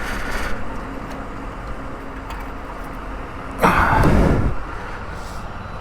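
Steady outdoor traffic and vehicle noise, with a brief louder whoosh of noise about three and a half seconds in.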